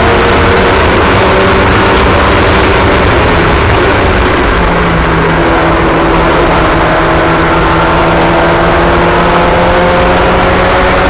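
Several small race-car engines running together on track, their overlapping pitches slowly rising and falling as the cars lap.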